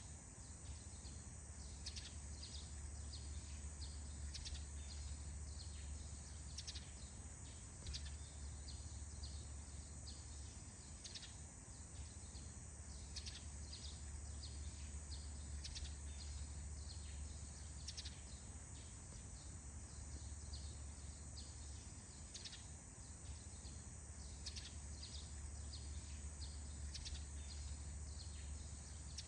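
Forest dawn ambience: short, scattered bird chirps over a steady high insect drone and a low, steady rumble.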